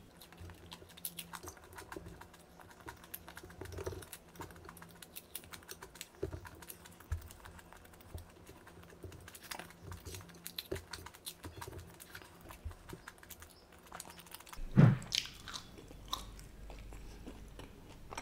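Close-miked chewing of crunchy fried snack food such as nacho chips, many small crackling crunches between bites. One much louder low thump about fifteen seconds in.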